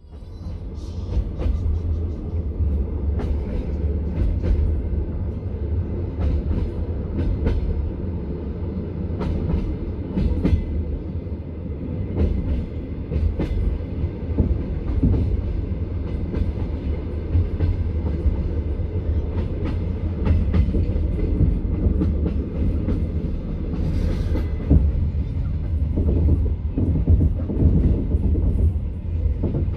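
Passenger train carriage running on the track: a steady low rumble with frequent sharp clacks of the wheels on the rails.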